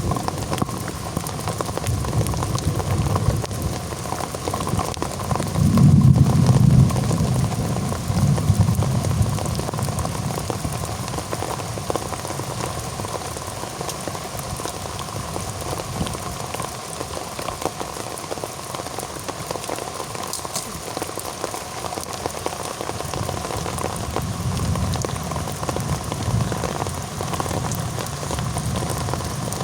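Heavy rain falling steadily, with a low rumble that swells and fades, loudest about six seconds in.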